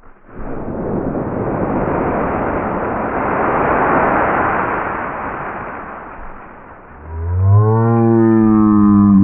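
Dry beech leaves rustling and crunching heavily for several seconds as someone plunges into and thrashes about in a big leaf pile. About seven seconds in, a long, low, drawn-out vocal cry from a man's voice, its pitch sinking slightly.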